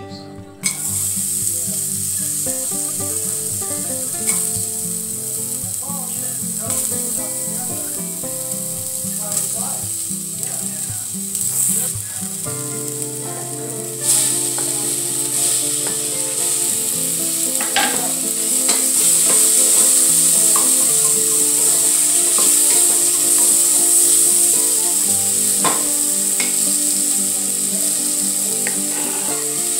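Hot oil sizzling in a stainless steel saucepan; about fourteen seconds in, sliced green vegetables are scraped in from a cutting board and the sizzling gets louder, with occasional knocks of a wooden spatula against the pan as they are stirred.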